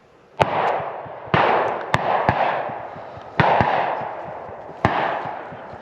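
Shotguns firing at released pheasants, about six shots from several guns at different distances, each with a long rolling echo.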